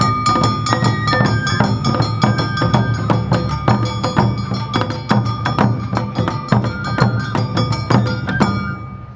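Awa Odori festival music: a bamboo flute melody over a quick even beat of drums and a small metal gong. It stops suddenly near the end.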